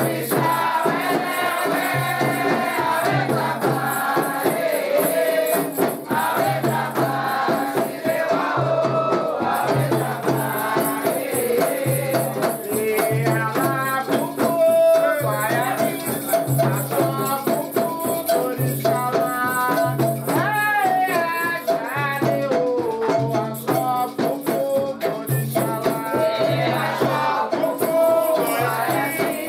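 Candomblé ritual music: voices singing a chant over constantly shaken rattles, with a low beat repeating about every second and a half.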